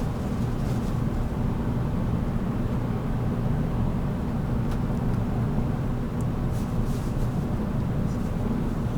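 Running noise of a JR Kyushu 783 series electric limited express, heard inside motor car MoHa 783-13: a steady low rumble of wheels on rail and the running gear at speed.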